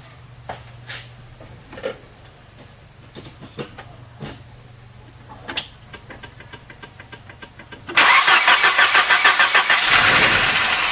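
Light scattered clicks, then a 1988 Volvo 240 GL's engine cranks and starts about eight seconds in, pulsing unevenly for a couple of seconds before settling into steady running.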